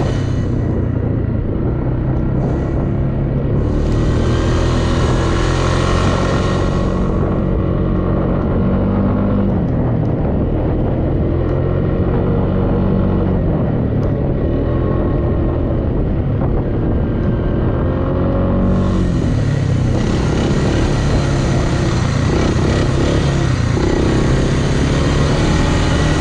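Off-road vehicle engine running on the trail, its pitch rising and falling as the throttle opens and closes. A rushing hiss comes in from about four to seven seconds and again from about eighteen seconds on.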